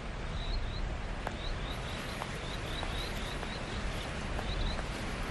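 Steady rush of creek water, with a bird chirping over it in short high notes, two or three a second.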